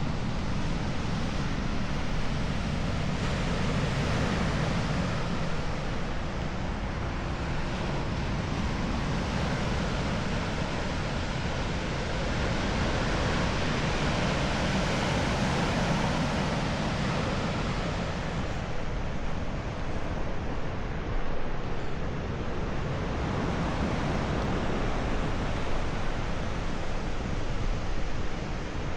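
Ocean surf with wind, a steady rushing noise that swells in the middle and eases off a little after.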